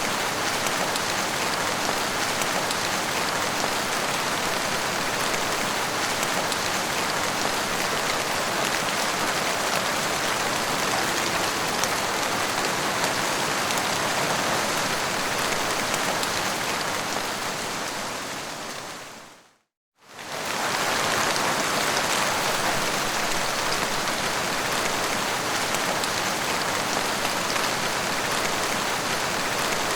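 Steady rain falling, an even hiss of drops. About two-thirds of the way through it fades out to a moment of silence and then fades straight back in.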